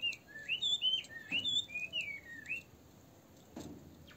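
A small songbird chirping: a quick run of whistled notes sliding up and down, stopping a little under three seconds in. Two soft knocks fall about a second and a half in and near the end.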